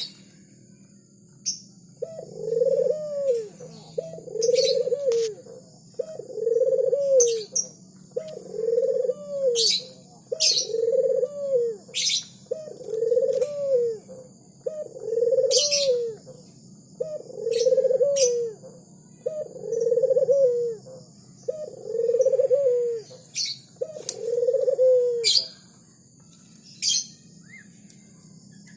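Dove cooing over and over, each coo about a second long and coming roughly every two seconds, until shortly before the end. Short, high chirps from small birds are heard between the coos.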